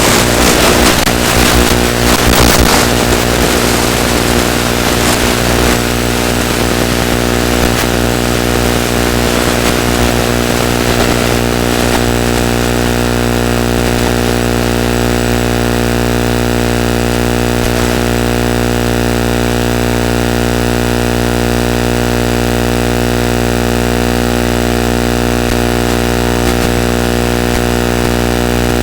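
Small electric motor and propeller of a ZOHD Drift FPV glider running at a steady speed, a constant multi-toned drone. Gusty wind noise rushes over it for the first few seconds.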